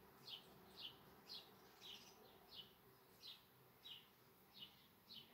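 A bird repeating a single short, high chirp that falls slightly in pitch, about one every half second, faint over quiet room tone.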